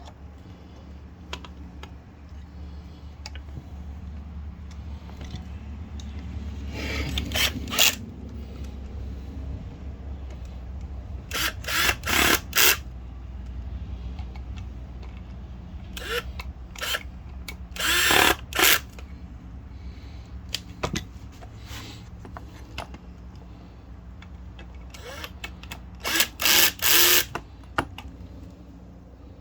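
Cordless drill turning screws in short trigger bursts, in four separate runs of a second or so each.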